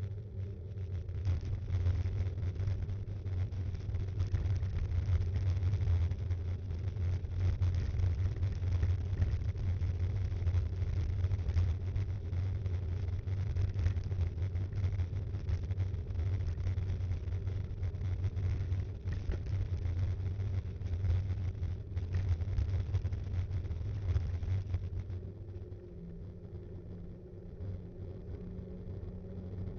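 Riding noise picked up by a mountain bike's action camera: a steady low rumble of wind and tyres on the road, easing off near the end.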